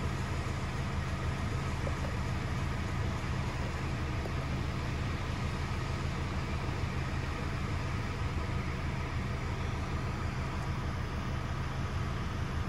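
Ford Ranger 2.0-litre bi-turbo four-cylinder diesel idling steadily after a cold start, an even low rumble.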